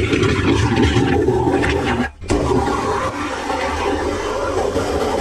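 Water rushing and gurgling through a drain pipe, like a flush, steady apart from a brief break about two seconds in.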